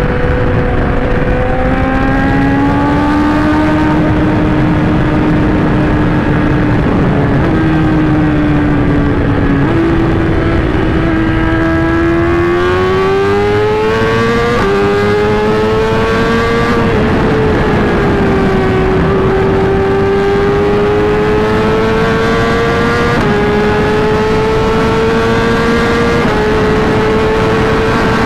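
Inline-four sport bike engine under way, its note climbing through the revs and dropping suddenly at each of several upshifts, over steady wind and road noise.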